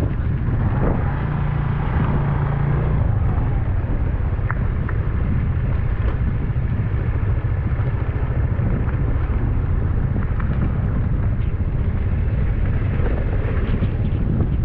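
Motorcycle engine running steadily under way, with a deep, even rumble.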